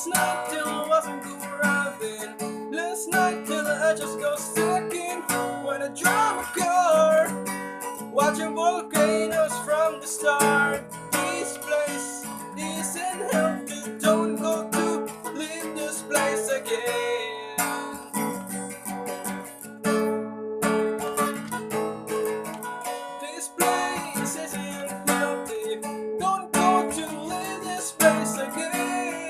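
Instrumental band music: strummed guitar chords with a bending lead melody over them, the song's guitar solo.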